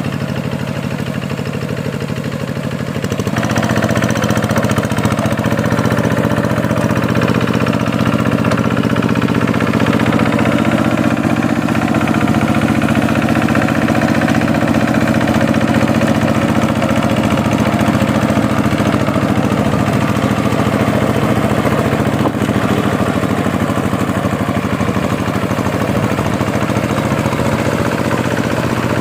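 Diesel tractor engine running steadily while ploughing a waterlogged paddy field, picking up and getting louder about three seconds in.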